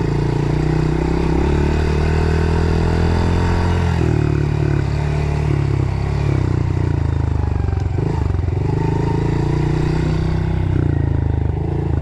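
Dirt bike engine running as it rides along a trail, its note rising and dropping as the throttle changes, with clatter from the bike over the ground.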